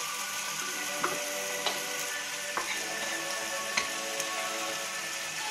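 Thin turkey rolls sizzling as they fry in a pan, a steady hiss, with about four light clicks of a utensil against the pan.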